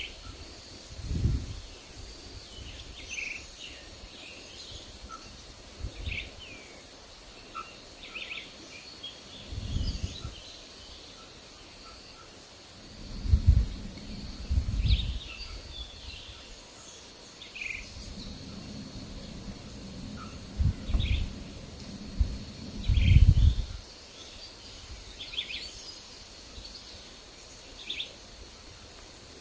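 Forest birds chirping in short, scattered calls, over gusts of wind rumbling on the microphone. The gusts come and go, the loudest about halfway through and again a little past two-thirds of the way.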